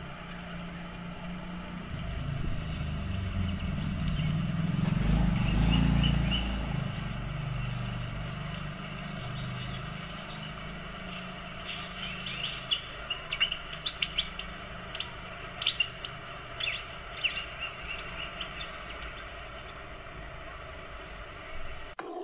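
A low rumble swells to its loudest about five to six seconds in and then fades. From about twelve seconds in, birds chirp in quick, repeated calls.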